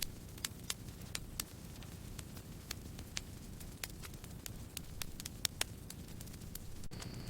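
Campfire crackling: irregular sharp pops and snaps of burning wood, a few louder than the rest, over a steady low rush of the flames.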